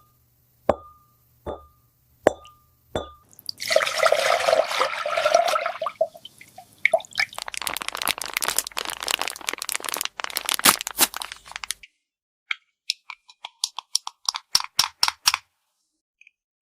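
Small plastic toy pieces being handled: four light clicks, each with a short ring, then a few seconds of hissing, then a dense run of rustling and rapid clicking that thins out into separate taps near the end.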